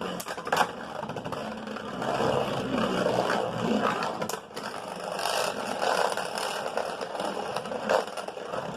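Beyblade Burst spinning tops whirring and scraping against each other and the plastic stadium, with a few sharp clacks as they collide.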